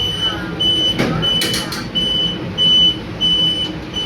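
A lift's electronic beeper sounding a high, even beep over and over, about one and a half beeps a second, with a few short wavering squeaks in the first two seconds.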